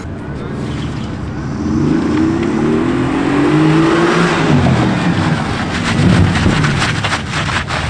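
Mercedes-AMG GT S's twin-turbo V8 revving hard, pitch climbing for a couple of seconds and then dropping off as the throttle is lifted. A quick run of sharp crackles follows near the end.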